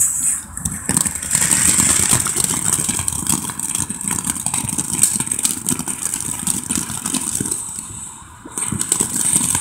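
Ground-flower firework spinning on the ground, giving a loud high hiss with many small crackles; it starts about a second in, fades briefly near the end, then picks up again.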